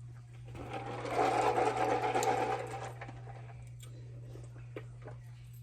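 A mechanical whirring that swells about half a second in and dies away about three seconds in, over a steady low hum.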